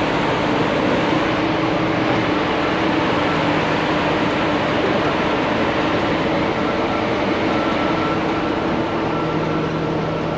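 Heavy truck engine running steadily with an even rumble and a faint steady hum.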